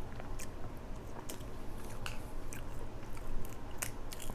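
Close-miked chewing of crab meat, with scattered small wet mouth clicks and smacks.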